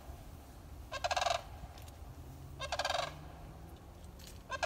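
A large bird calling three times, a short rattling call about every second and a half to two seconds.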